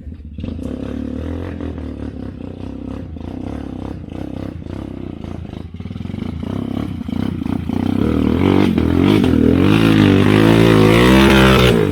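Motorcycle engine running, growing louder about halfway through and revving up and down with a wavering pitch.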